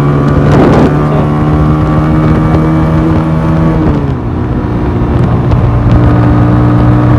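Motorcycle engine running steadily under way. Its pitch drops about four seconds in as the revs come down, then holds steady, with a brief rush of noise about half a second in.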